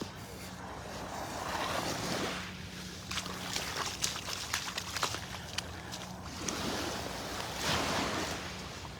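Small Gulf of Mexico waves washing up on the beach, the surf swelling twice, with a few light clicks in between.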